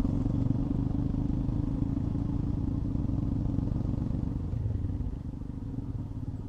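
Royal Enfield Himalayan single-cylinder motorcycle engine running steadily while riding, heard from on the bike, easing off slightly about five seconds in.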